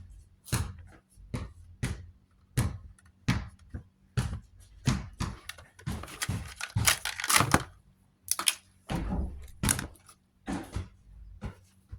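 Hands working the power cord free of a Duracraft box fan's housing: a run of sharp clicks and knocks of plastic and wire, with a burst of crinkling and rustling about six to eight seconds in.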